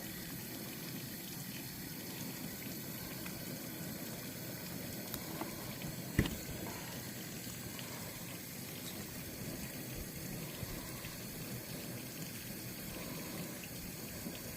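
Steady running water, even and unbroken, with one sharp click about six seconds in.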